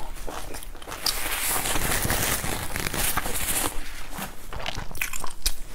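Close-miked chewing of crunchy food, with sharp crunching clicks near the start and again near the end. In the middle, a steady rustling hiss lasts about two and a half seconds.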